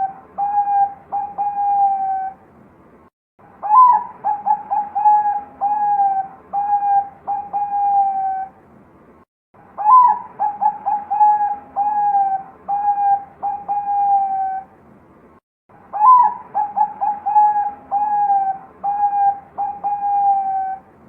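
Zebra dove (perkutut, Bangkok song line) singing its staccato cooing song. Each phrase opens with a sharp rising note, runs through a quick string of short coos and ends in longer drawn-out notes, repeated about every six seconds with brief pauses between.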